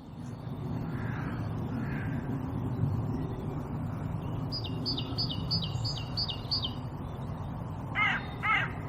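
A crow cawing a few times near the end, with a small bird's quick series of about eight high piping notes in the middle, over a steady low rushing noise of river flow or wind.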